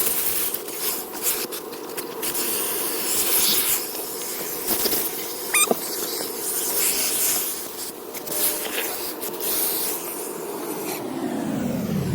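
Car wash vacuum running with a steady hiss and hum as its hose sucks air, with a brief squeal about halfway through. Near the end the motor winds down, its hum falling in pitch.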